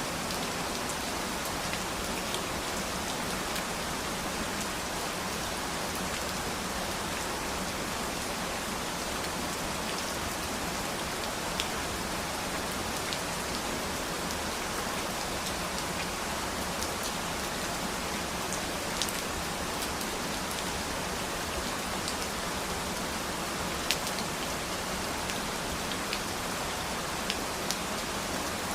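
Steady rain falling on a surface, an even hiss with scattered sharper ticks of individual drops.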